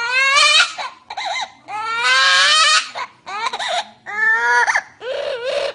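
Loud, high-pitched crying like a baby's wail: about six cries in a row, the longer ones rising in pitch, broken by short breaths.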